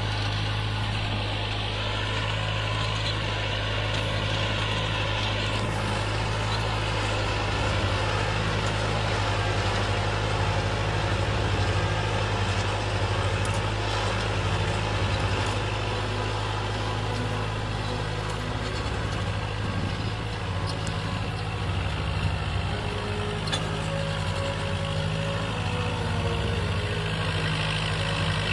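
A tractor's diesel engine running steadily.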